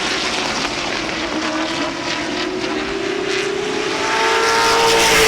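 Late model stock cars racing on the oval, their engines running at speed with a pitch that slowly rises, getting louder near the end as the cars come closer.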